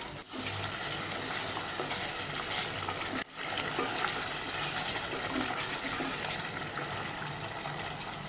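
Water poured little by little into a pan of hot chicken korma gravy, which sizzles as it is stirred. The sound breaks off for an instant twice.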